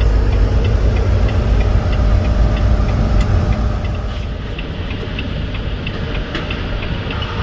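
Semi-truck engine and road drone heard from inside the cab while driving, a steady low rumble. A faint regular ticking runs over it, and the level drops a little about four seconds in.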